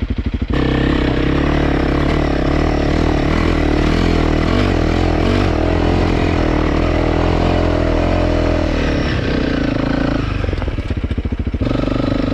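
Single-cylinder trail motorcycle engine opened up hard about half a second in and pulling under load, then easing back to a putter for a moment near the end before the throttle opens again.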